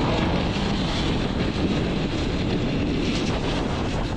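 Motorcycle under way: a steady engine drone half buried under wind rushing over the microphone.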